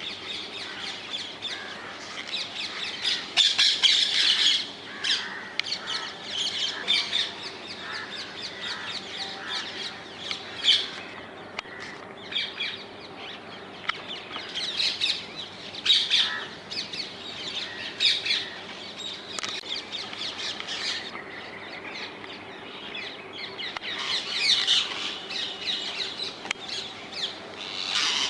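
Rose-ringed (ring-necked) parakeets calling: many short, harsh screeches repeated throughout, loudest about three to four seconds in and in several bursts later, over a faint steady hum.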